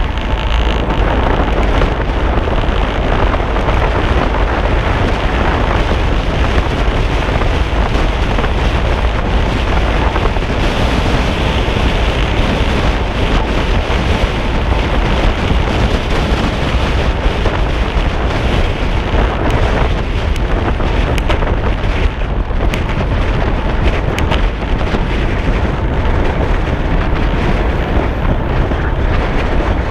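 Steady, loud wind noise buffeting the microphone of a camera carried along on a moving bike.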